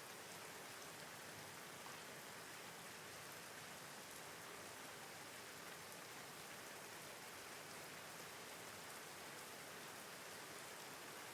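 Soft, steady rain falling on a surface, with scattered faint drop ticks.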